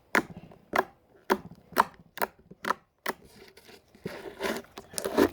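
Sticky homemade slime being squished and pulled in the hands, giving sharp pops and clicks about twice a second, with a longer squelching stretch about four seconds in.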